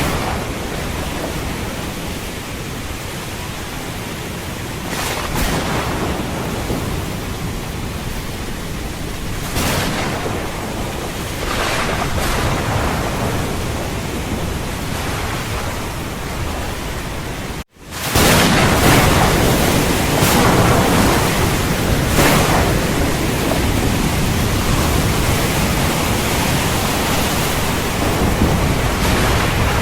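Steady rain with low thunder rumbling beneath it. Just over halfway it cuts out for a moment and comes back louder.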